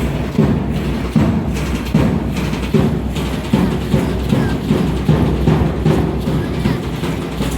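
Drumming for an Aztec dance performance: a loud, steady, even beat of drum strokes.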